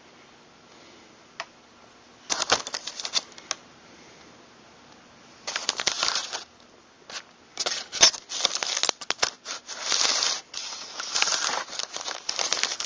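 Handling noise from disassembled shotgun parts being moved about: irregular clicks, clatter and rustling in bursts, starting about two seconds in and getting busier toward the end.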